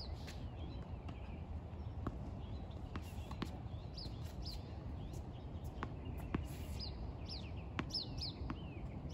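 Birds chirping in short, falling notes, repeated every second or so, over a steady low outdoor rumble, with a few faint taps.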